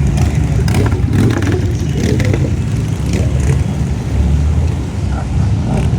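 A car engine running.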